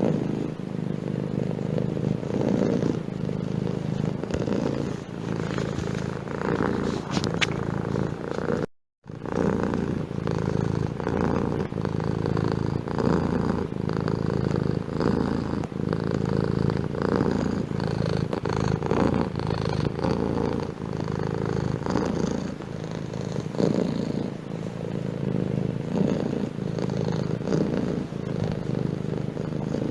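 Domestic cat purring close up, steady, with a regular rise and fall as it breathes in and out. The sound cuts out completely for a moment about nine seconds in.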